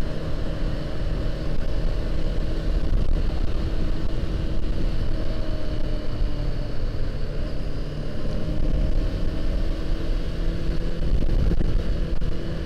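Honda CBR500R's parallel-twin engine running steadily under way, over a heavy low rumble of wind and road noise, its note dipping slightly and then rising a little.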